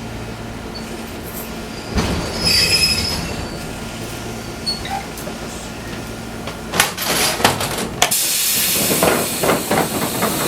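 Fukui Railway 200 series train at a stop, with a steady electrical hum and a brief high squeal about two seconds in. Several sharp clicks and knocks around seven seconds are followed from about eight seconds by a loud, sustained hiss of compressed air.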